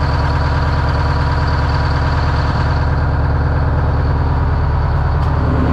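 Detroit Diesel engine of a classic monster truck idling steadily, shortly after being started following months of sitting. Its revs rise a little near the end.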